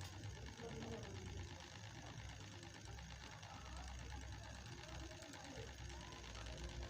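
Small DC motor running steadily, spinning the rotor of a homemade model helicopter with a faint, even whir.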